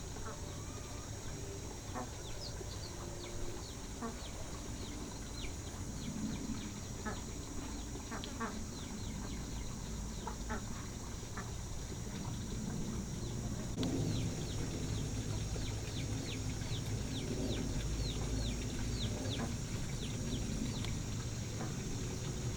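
Farmyard fowl and birds calling: many short, high, falling chirps in quick runs, busiest in the second half, over a steady high-pitched drone.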